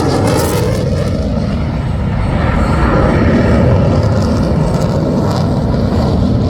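Military aircraft engine noise: a loud, steady rumble of an aircraft passing overhead.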